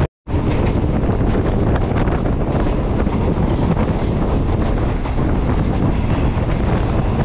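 Aboard a passenger train of the Okha–Rameshwaram Express running on track: a steady rumble and rattle of wheels and coach, with faint rhythmic clicking, after a brief dropout at the very start.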